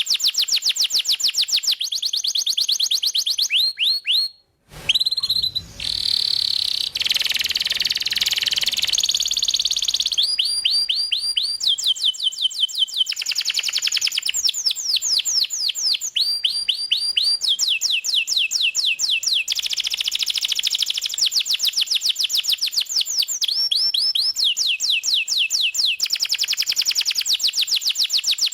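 Canary singing a long, continuous song made of fast trills. Each trill is a rapid run of repeated downward-sweeping notes, and the song switches to a new trill every second or two. It breaks off briefly about four seconds in.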